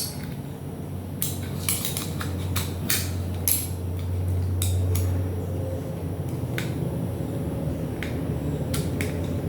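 Scattered sharp clicks and light clinks of small metal and plastic parts and tools being handled while a Philips stereo is taken apart, over a steady low hum.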